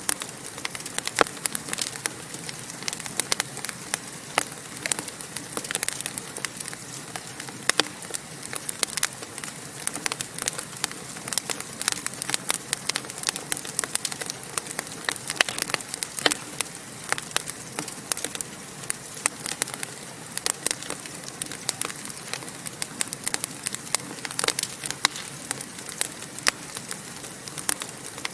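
Wood fire crackling in a fireplace: a steady low hiss of flames with many sharp, irregular pops and snaps.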